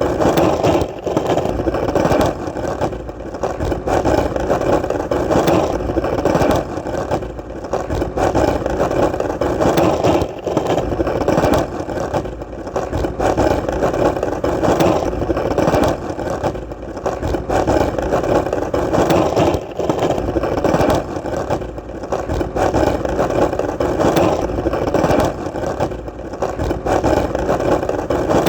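Skateboard wheels rolling on solid ground: a steady rolling noise that dips briefly every two to three seconds.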